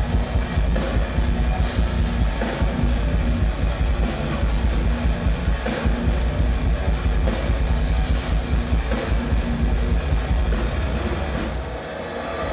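Live metalcore band playing with heavy distorted electric guitars, bass and drums, loud through a festival PA. The low end drops out briefly near the end.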